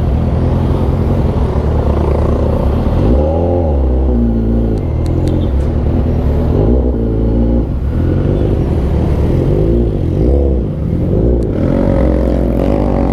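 Kawasaki Z900RS's inline-four engine through an Arrow aftermarket exhaust, running while riding, its revs rising and falling several times as the throttle is opened and closed.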